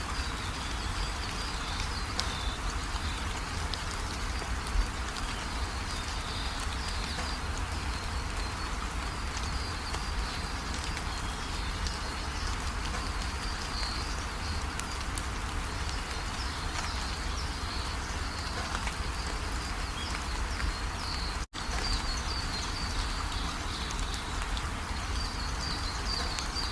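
Steady rain falling, an even hiss of drops, with high chirping calls coming and going over it. A split-second gap of silence about two-thirds of the way through.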